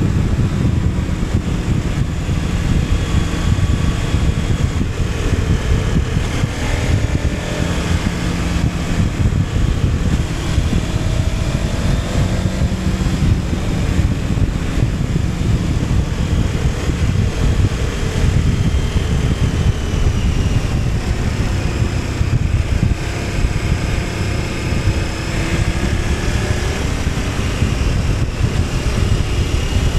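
KTM 1290 Super Adventure S's V-twin engine running under way, its pitch rising and falling with the throttle, under heavy wind rush on the microphone.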